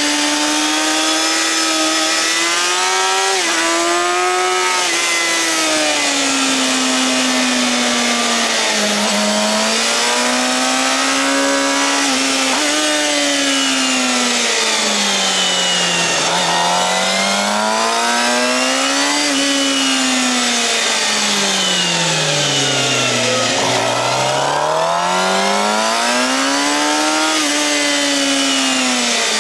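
Suzuki GSX-R750's inline-four through a Yoshimura R-11 slip-on exhaust, heard from on the bike at speed. The engine note climbs under acceleration and drops away on braking and downshifts several times, falling lowest about three-quarters of the way through before climbing again, with a rush of wind over it.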